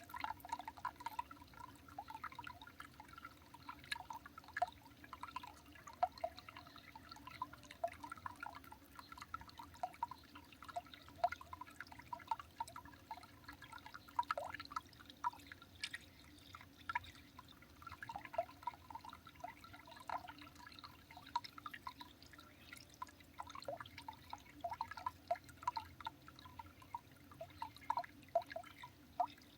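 Water dripping steadily and irregularly: many small drops landing close together, each a short pip.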